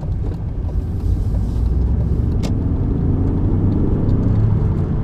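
Inside the cabin of a 1995 BMW E36 318i on the move: the four-cylinder engine, the tyres and a low rumbling drone, getting a little louder about a second in, with one short tick halfway through. Part of the drone is taken for the worn nearside rear wheel bearing that has not been changed, now a little better with the offside bearing new.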